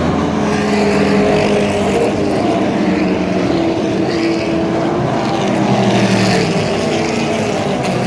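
A pack of racing muscle cars' engines revving and accelerating together at a race start, several engine notes overlapping and rising and falling in pitch.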